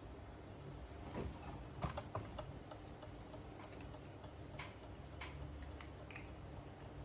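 Scattered light clicks and taps of small tools and phone parts being handled during a phone battery replacement, about a dozen sharp ticks at irregular intervals over a faint steady hum.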